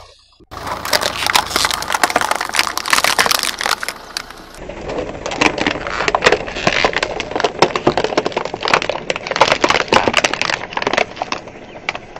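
Crunchy objects crushed under a car's tyre: dense crackling and snapping. The sound breaks into a second take about four and a half seconds in.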